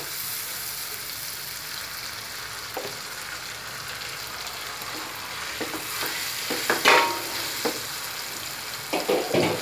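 Ginger-garlic paste sizzling in hot oil and butter in a frying pan, stirred with a wooden spatula. Raw chicken pieces are tipped in about halfway through, followed by scraping and knocks of the spatula against the pan, loudest a couple of seconds before the end.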